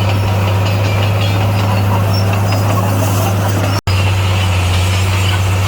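Heavy earthmoving machine's diesel engine running at a steady low drone, with a momentary break in the sound about two-thirds of the way through.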